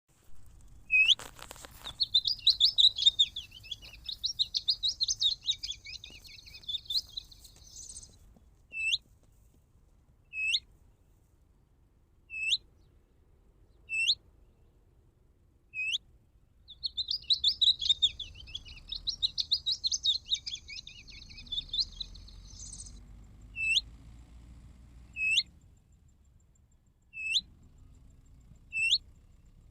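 Songbird song played from an electronic bird caller as a hunting lure: a long scratchy, chattering song phrase, then single sharp upward-hooked call notes about every one and a half to two seconds, the same sequence repeating.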